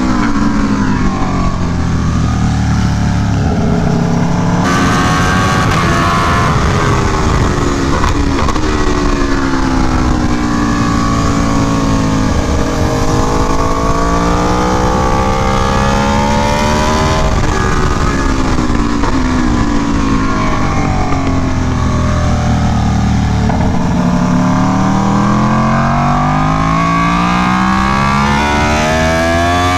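Aprilia Tuono V4 1100 Factory's V4 engine at track speed. The engine note climbs under acceleration, steps with gear changes and falls away into corners, several times over, with steady wind rush.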